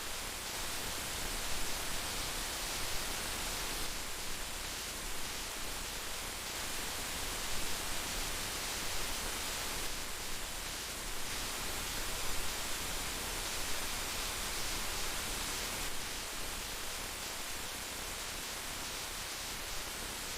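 Heavy rain falling steadily: a dense, even hiss, now and then a little louder.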